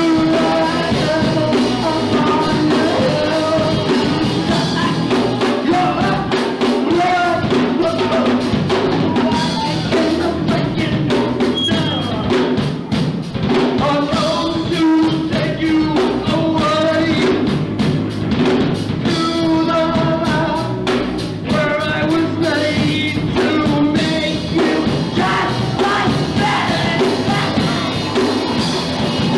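Punk rock band playing live: a drum kit driving a loud, steady song, with singing over it.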